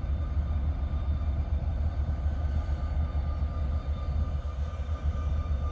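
Steady low rumble of an idling engine, even throughout, with a few faint steady whining tones above it.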